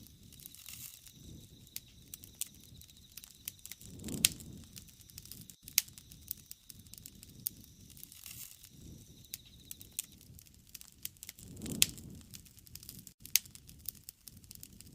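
Wood fire crackling, with irregular sharp pops and a low rushing swell of the flames twice, about four seconds in and again near the end.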